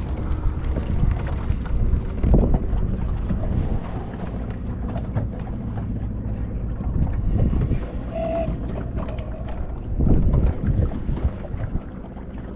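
Wind buffeting the microphone on a small fishing boat, over a low steady hum, with a few dull knocks about two and a half, seven and ten seconds in.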